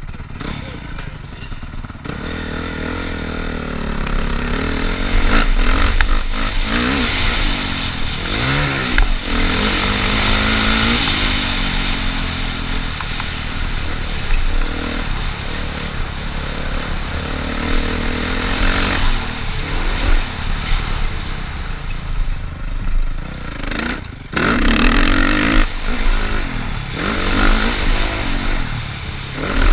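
Motocross bike engine revving, its pitch rising and falling again and again as it accelerates and shifts, with a brief drop near the end.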